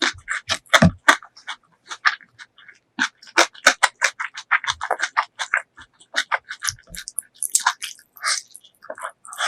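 Close-miked ASMR eating sounds from a meal of chicken masala curry and cucumber salad: chewing and mouth clicks in a dense, irregular run of short crunches, several a second.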